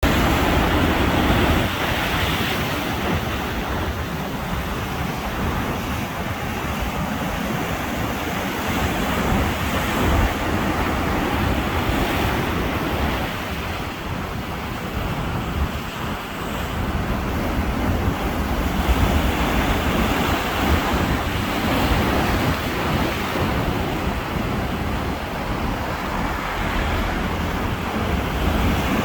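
Ocean waves breaking and washing on a beach, a continuous surf wash that swells and eases every few seconds, with low rumbling wind noise on the microphone.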